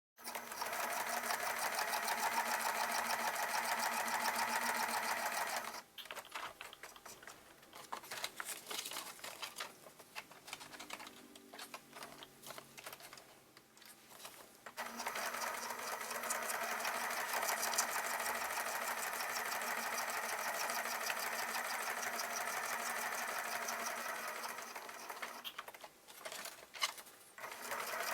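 Sewing machine stitching around the edge of a paper page trimmed with lace. It runs steadily for about six seconds, stops for about nine seconds with scattered small clicks, then runs again until near the end, where a few clicks follow.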